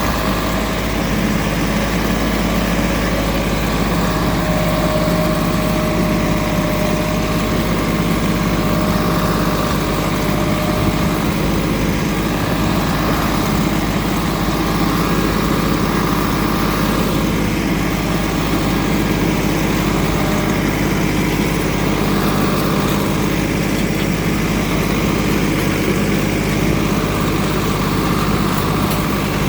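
SAME Minitaurus 60 tractor's diesel engine running steadily while working a ditcher.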